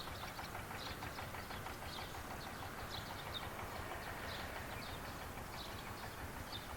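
Countryside field ambience: a steady low rush of air with small birds giving short, high chirps every second or so.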